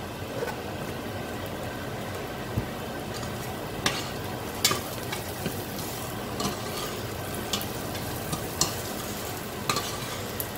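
Onions, garlic and peanuts sizzling in hot oil in a stainless steel saucepan while a metal spoon stirs them, with the spoon clinking and scraping against the pan now and then.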